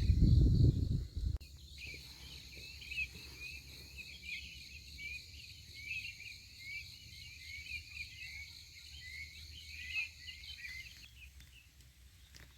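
Outdoor wildlife chorus: a steady high buzz with many short, rising chirps over it, fading out near the end. It opens with a low rumble that cuts off abruptly about a second and a half in.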